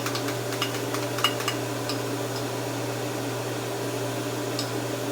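Steady low electrical hum of a running kitchen appliance, with a few light clicks and taps of utensils in the first two seconds and once more near the end.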